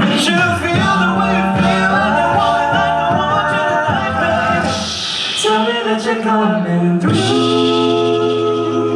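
Male a cappella group singing in close harmony over a sung bass line, with no instruments. Near the end they settle into one long held chord.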